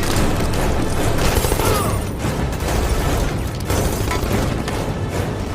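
Dense action-film sound mix: a loud, steady rumble of aircraft and rushing air under dramatic orchestral score, with a few heavy booms.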